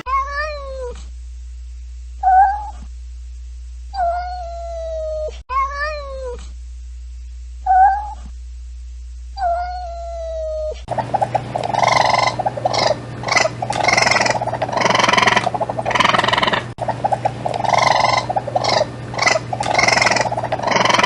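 A domestic cat meowing: about six separate drawn-out meows, several falling in pitch. About halfway through, the sound cuts to a different, dense and continuous run of rapid animal calls.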